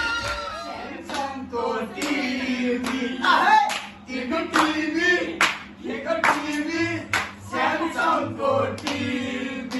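A group of people singing together with hand clapping keeping time, about two claps a second.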